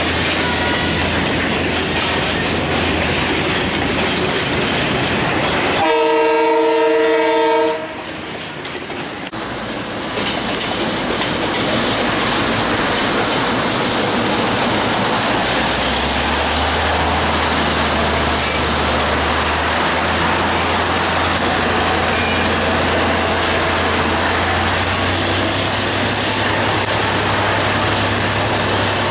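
Freight train of container wagons rolling past with a steady rumble and wheel clatter; about six seconds in, a train horn sounds one chord-like blast for about two seconds. After a cut, the KiwiRail DC-class diesel-electric locomotive is heard running with a low steady engine note under the rolling noise as it hauls the train past.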